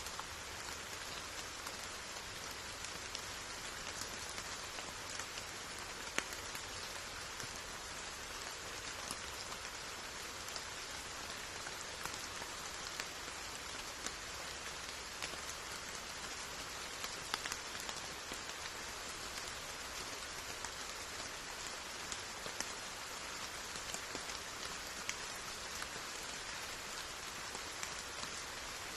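Steady rain falling, an even hiss with scattered individual drops tapping clearly.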